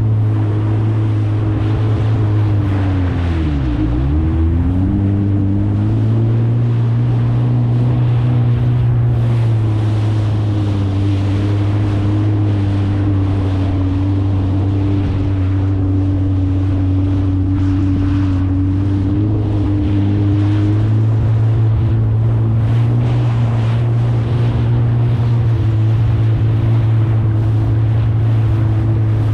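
Kawasaki STX 160 jet ski's four-stroke inline-four engine running at speed, with wind rushing over the microphone and water noise. About three to four seconds in, the revs drop sharply and climb back, then the engine holds steady.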